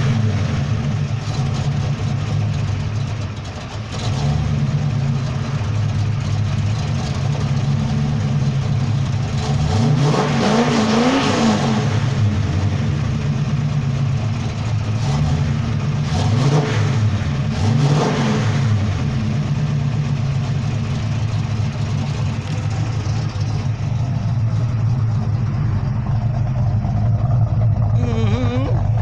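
Ford 351 Cleveland V8 with a 400 cam and performance parts, idling with a steady low note and revved up and back down in several short blips.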